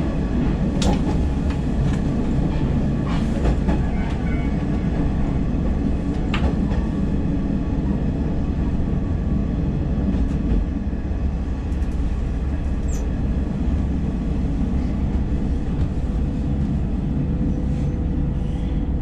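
Diesel railcar running along the track, heard from inside the cab: steady engine and wheel noise with a few short sharp clicks.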